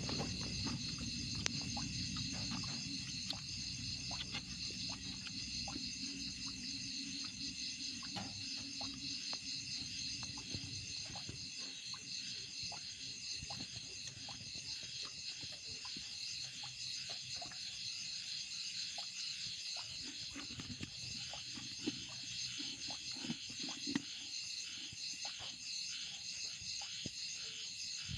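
A night chorus of insects, crickets or katydids, keeps up a steady, high, pulsing trill. Scattered small clicks and taps sound over it.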